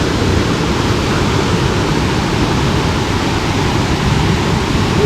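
Steady, loud rush of fast-flowing river water and waterfalls.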